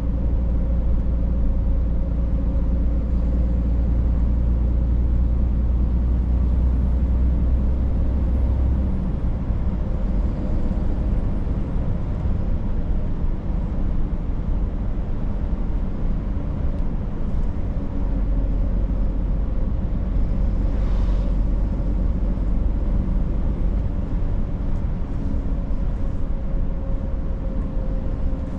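Scania truck driving, its engine and road noise running steadily with a steady whine; the deep engine rumble drops away about a third of the way in and comes back about two thirds in.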